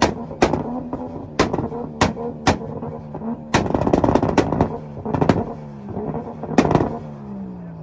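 Nissan's engine held on a two-step launch limiter, its revs hovering and wavering while the exhaust fires sharp, loud bangs at irregular intervals, about eight of them. Near the end the revs fall away as the throttle is released.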